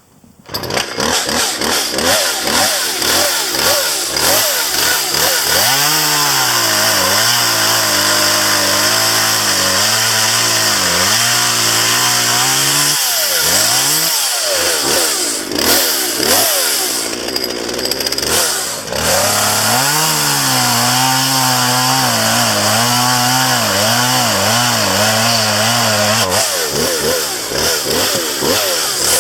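Gas chainsaw running hard, starting abruptly about half a second in. Its engine pitch swings up and down as it revs, then settles lower and steadier for long stretches as it cuts through wood.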